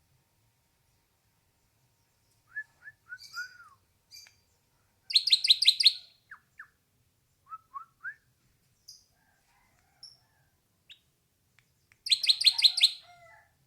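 Hair-crested drongo calling: two loud bursts of about six rapid repeated notes, one about five seconds in and one near the end, with scattered short whistled and gliding notes between.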